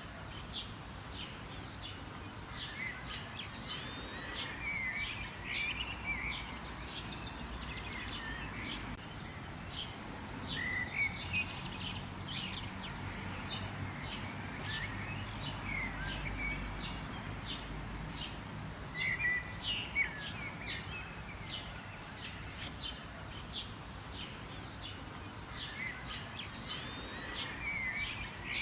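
Several birds chirping and whistling in a busy, overlapping chorus of short calls, over a low background rumble.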